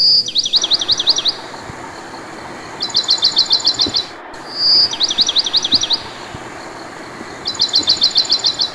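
Songbird singing in repeated high phrases, each a short whistled note followed by a quick trill of about eight notes, or the trill alone, recurring every couple of seconds over a steady hiss.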